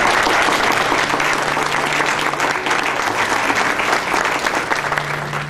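Audience applauding, a dense steady clapping that eases slightly near the end.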